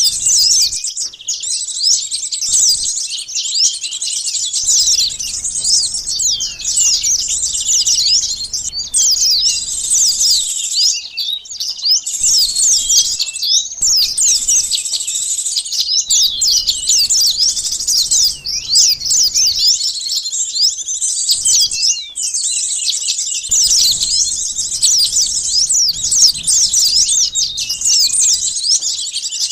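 Sunbird lure calls: a dense, continuous chorus of rapid, high-pitched chirps and trills from many overlapping birds, with no let-up.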